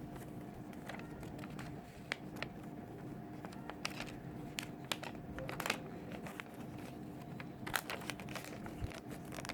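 Paper being folded and pressed together by hand: scattered crinkles and rustles over a faint steady hum.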